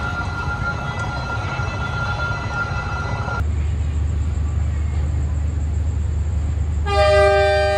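Steady whining tones from a waiting train cut off suddenly about three and a half seconds in, giving way to a diesel locomotive's low idling rumble. Near the end the locomotive's horn sounds once for about a second and a half.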